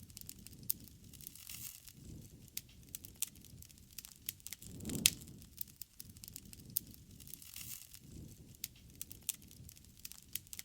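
Wood campfire crackling with many sharp pops over a low rush of flame that swells now and then, most strongly about five seconds in.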